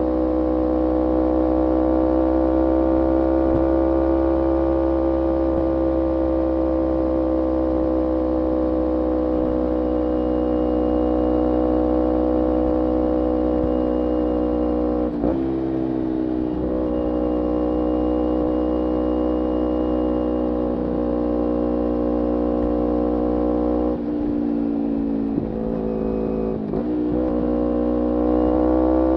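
Kawasaki Ninja 250R parallel-twin engine running through a full Graves racing exhaust, held at a steady speed with an even, buzzing note. The throttle is briefly closed about halfway through and a few times near the end, the pitch dipping each time, then the revs climb again at the very end.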